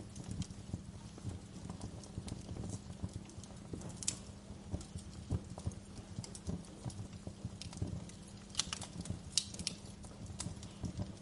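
Wood fire crackling in a fireplace: irregular sharp pops and snaps over a low steady rumble, with a few louder pops close together near the end.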